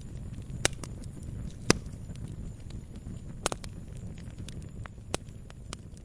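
Campfire burning with a low steady rumble and scattered small crackles, broken by four sharp pops, the loudest a little under two seconds in.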